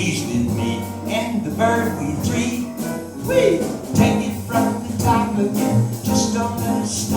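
Live small jazz band playing a swing tune, with piano and a steady beat of sharp high percussion strokes.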